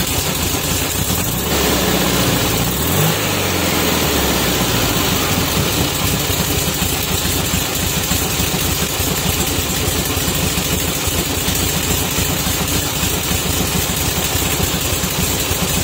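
1969 VW bay-window bus's 1691cc air-cooled flat-four, breathing through a Weber 34 ICT carburettor and a Vintage Speed Classic Superflow muffler, running steadily. About one and a half seconds in, it is revved once, the pitch rising and falling back, then it settles to an idle.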